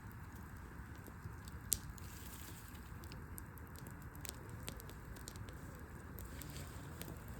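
Wood fire crackling: scattered sharp pops and snaps of burning wood over a steady low background noise, with one louder pop just under two seconds in.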